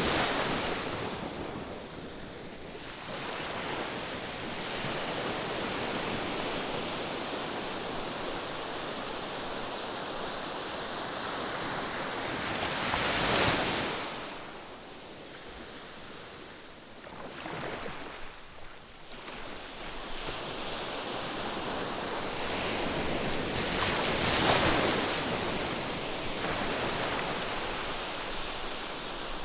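Ocean surf, waves breaking and washing in a steady rushing wash that rises and falls. There are two louder crashes, one about halfway through and another near the end.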